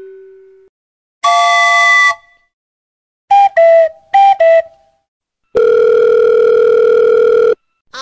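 Electronic beep sound effects: a short chord-like honk about a second in, four quick beeps alternating between two pitches, then one long steady beep lasting about two seconds.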